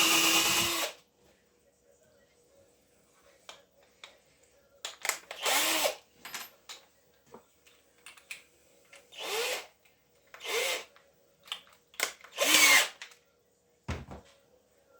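A small power tool motor running with a steady pitch, cutting off about a second in. It is followed by light handling clicks and four short, noisy bursts of half a second or so, each with a brief dip and rise in pitch.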